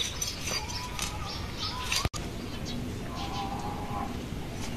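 Birds chirping and calling faintly in the background, with short high chirps and a couple of thin held calls. The sound drops out for an instant about two seconds in.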